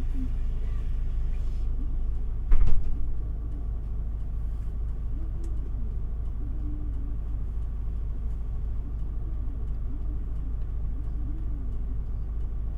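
Isuzu Erga city bus idling at a stop, a steady low diesel rumble heard from inside the cabin. About two and a half seconds in there is one brief loud burst, after which the rumble is slightly quieter.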